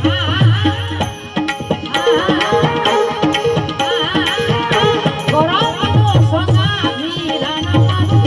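Santvani bhajan music: a wavering melody over tabla and other percussion, with a steady low drone underneath.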